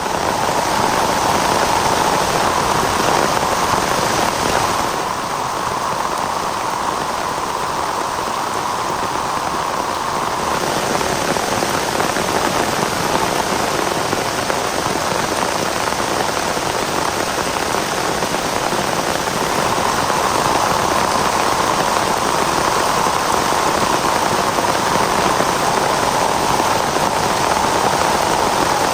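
Heavy rain falling steadily, easing a little for a stretch in the middle and then picking up again.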